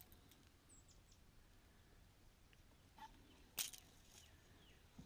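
Near silence outdoors, with a few faint, short falling bird chirps. A sharp click sounds about three and a half seconds in, with a smaller one just before it.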